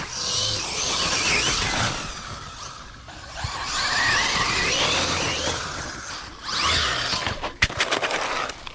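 Radio-controlled car driven in three bursts of throttle, its motor whine rising and falling over a rush of tyre and ground noise. A few sharp clicks come near the end.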